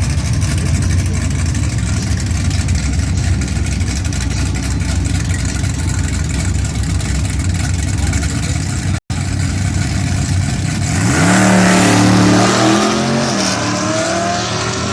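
A car engine rumbling steadily at low revs. After a cut, an engine accelerates hard: its pitch climbs, drops once at a gear change, and climbs again.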